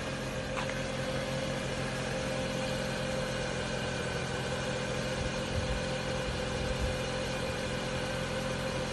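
Jeep Patriot's four-cylinder engine idling steadily.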